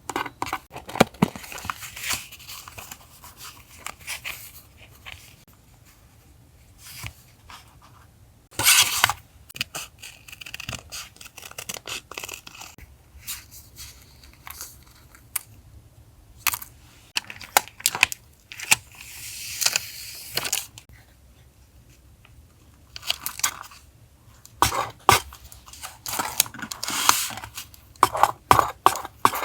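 Paper and sticker sheets handled by hand for a journal collage: irregular rustles, taps and clicks, with a few longer stretches of peeling or tearing. A faint low hum runs underneath.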